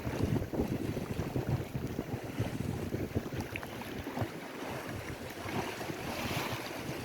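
Wind buffeting the microphone over lake waves washing against the shore, with a louder hiss of water near the end.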